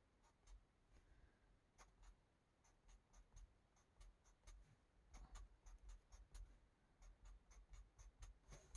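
Faint, quick strokes of an Ohuhu marker's felt tip on coloring-book paper: short, scratchy ticks at an uneven pace as small X's are drawn.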